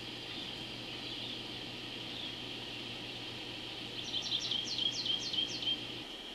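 A small bird calling a quick series of about eight high notes, each sweeping downward, over a steady background of insects trilling.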